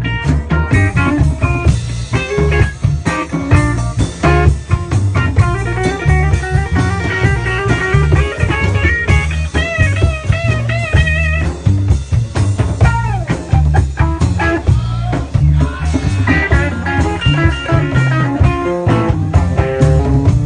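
Live blues band playing with guitar, bass and drum kit, no vocal. Partway through, a lead line plays bent, wavering notes.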